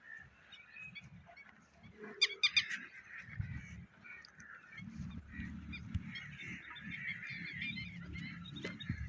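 Birds calling and chattering, with a quick run of sharp calls about two seconds in, over a low rumble.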